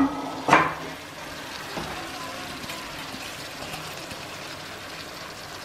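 Biryani masala sizzling steadily in a pot under a heap of freshly added washed rice, with a sharp clank against the pot about half a second in.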